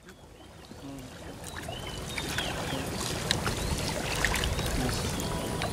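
Outdoor ambience fading in and growing louder: a steady hiss, perhaps water, with many short bird chirps and scattered sharp clicks over it.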